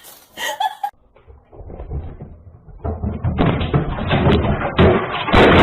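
Rapid, irregular thumps and knocks, growing much louder about three seconds in.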